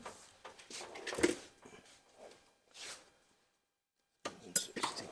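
Scattered clinks, scrapes and knocks of metal hand tools, wrenches and sockets, being handled while dismantling an engine, the loudest about a second in. About three seconds in there is a second of complete silence, then sharp metal clicks.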